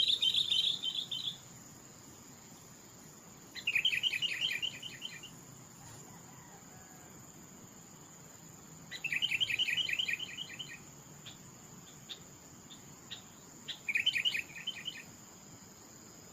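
A songbird singing: a quick run of evenly spaced notes lasting about a second and a half, repeated four times a few seconds apart, with a faint steady high insect drone under it.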